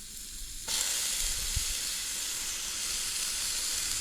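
Ground beef starting to sizzle in a hot pan over a campfire: a steady hiss that sets in suddenly under a second in.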